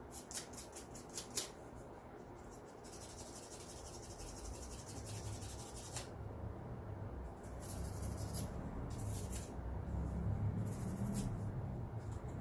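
Sandpaper rubbing on a spark plug to clean off deposits: a quick run of short strokes, then a few seconds of steady scrubbing, then short scrubs. A low rumble grows louder in the background in the second half.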